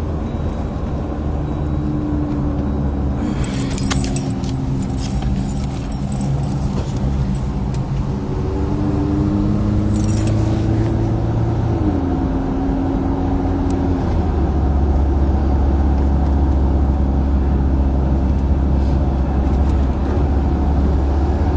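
A car running along, with a low engine and road hum whose pitch rises slowly and then steps down about twelve seconds in. Short rattles come through around four and ten seconds in.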